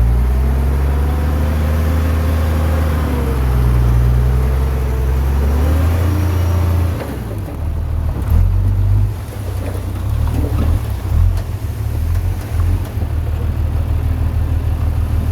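Heavy diesel engine of earthmoving machinery working under load, its pitch rising and falling for about the first seven seconds. After that it turns choppier and less even.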